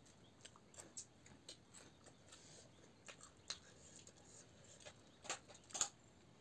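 Quiet eating sounds: scattered soft clicks of chewing and lip-smacking, with two louder clicks a little after five seconds in.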